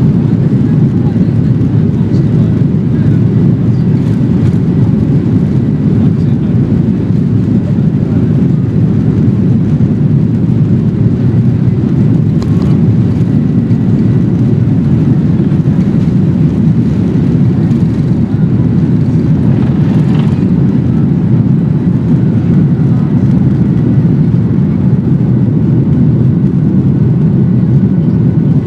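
Passenger airliner cabin noise: a steady, loud low rumble of the jet engines and airflow, with a few faint clicks.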